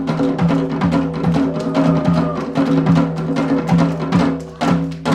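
Janggu, the Korean hourglass drum, played in fast rhythmic strokes over a trot backing track, with a short lull in the drumming just before the end.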